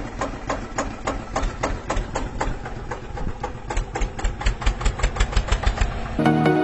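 Small tractor-type engine running with a rapid, regular knocking beat that quickens and grows stronger in the second half, then stops abruptly.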